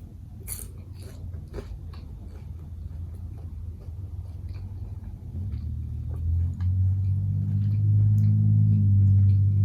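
Close-up chewing of a banh mi sandwich, with small wet mouth clicks. About halfway through, a low steady hum comes in and grows louder toward the end.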